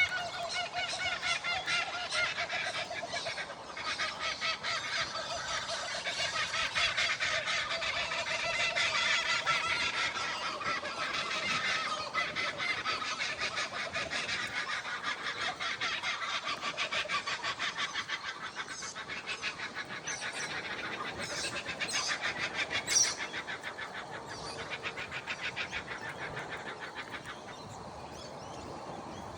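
Laughing kookaburra calling: a long, rapid rolling laugh of quickly repeated hoots that fades near the end. One sharp click sounds about three-quarters of the way through.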